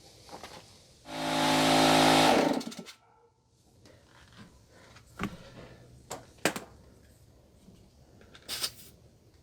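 Small air compressor motor running for about two seconds, inflating a freshly plugged flat tire, then cutting off suddenly. A few faint knocks and clicks follow.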